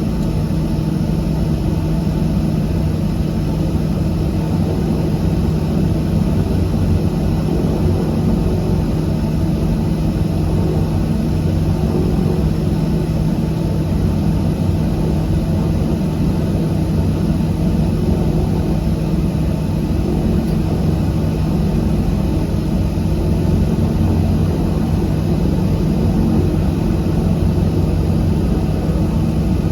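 Cabin sound of a de Havilland Canada DHC-6-300 Twin Otter: its two Pratt & Whitney PT6A turboprop engines and propellers running with a steady, loud drone and a constant low tone.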